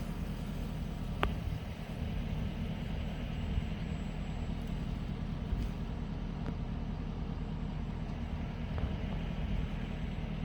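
Engine idling with a steady low rumble, and a single sharp click about a second in.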